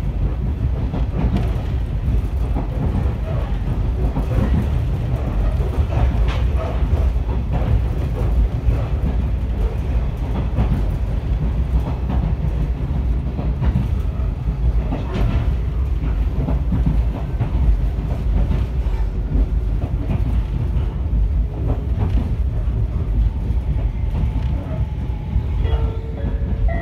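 MC7001 electric railcar, a converted ex-JR 119 series unit, running along the line, heard from inside the car: a steady low rumble with the wheels clicking over rail joints. A few short steady tones start near the end.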